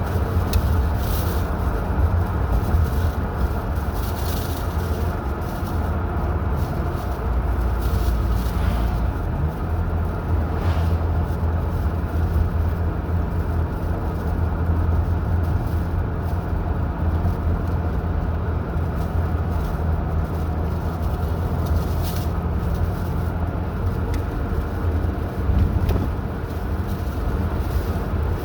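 Steady low rumble of a car driving, engine and tyre noise, with a few faint ticks here and there.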